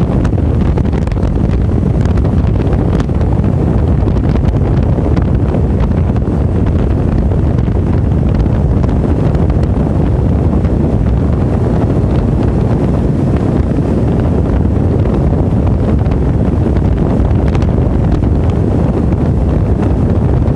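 Wind buffeting the microphone of a camera on a moving motorcycle: a loud, steady low rumble with no break.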